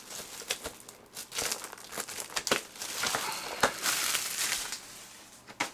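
Tight security tape being peeled and torn off a sealed trading-card box, with irregular crinkling and crackling of the wrapping.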